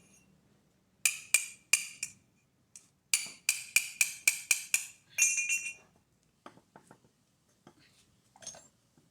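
Hard metal-on-metal strikes that ring sharply, typical of a tool tapping a steel part: three quick hits, then a fast run of about eight at roughly three a second, then a short ringing clatter, with a few fainter knocks after.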